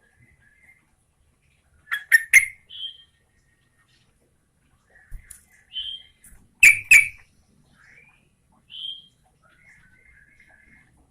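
Yellow-vented bulbul (trucukan) singing: two bursts of loud, sharp notes about five seconds apart, short whistled notes every few seconds, and softer chattering phrases in between.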